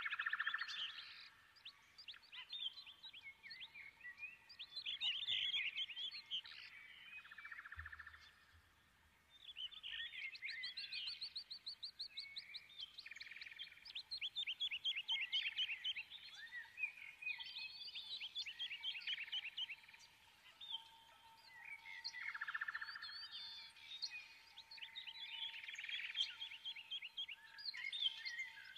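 Several birds singing, their phrases overlapping, with fast trills of evenly repeated notes. A faint steady tone runs under the second half.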